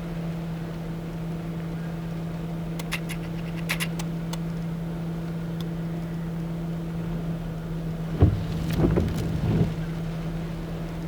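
Steady drone inside a truck's cab from the running vehicle. There are a few light clicks a few seconds in, and a cluster of loud thumps and knocks near the end.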